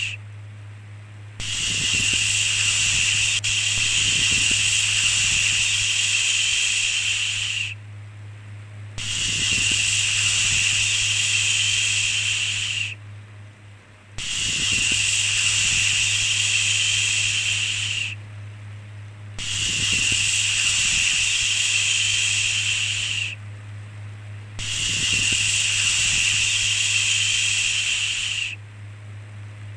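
A long 'shhh' shushing sound, repeated five times. Each one lasts about four to six seconds, with a pause of about a second between them, over a steady low hum.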